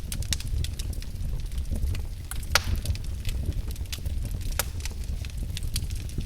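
Fire burning in a fireplace and crackling: irregular sharp pops over a steady low rumble, with one louder pop about two and a half seconds in.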